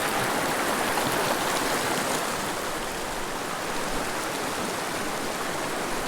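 Mountain river rushing steadily over rocks, a continuous even hiss of flowing water.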